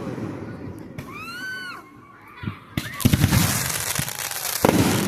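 Aerial fireworks: a sharp bang a little under three seconds in, followed by dense crackling, and another bang near the end.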